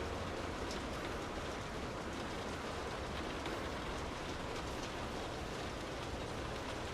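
Steady rain heard from indoors: an even hiss of falling rain with scattered sharper drop ticks and a low rumble underneath.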